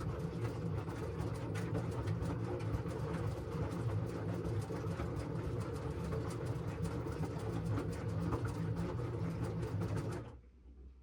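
LG front-loading washing machine drum turning during a wash cycle: a steady motor hum with a dense crackle of laundry and water tumbling. It stops abruptly near the end as the drum pauses between turns.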